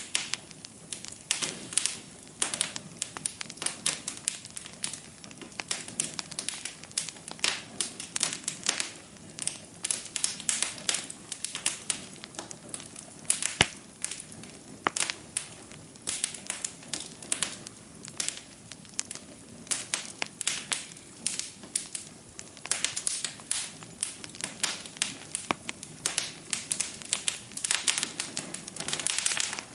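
Wood fire burning in a fireplace, crackling and popping irregularly over a low steady hiss, with one sharper pop about halfway through.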